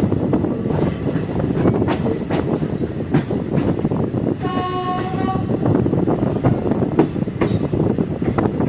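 Train running along the track, with a steady rumble and irregular knocks and clatter from the wheels over the rails. About halfway through, the train's horn sounds once for about a second.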